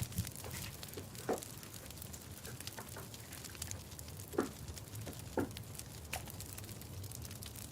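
Soft scattered clicks and crackles, with three short squeaky sounds about a second, four and a half and five and a half seconds in.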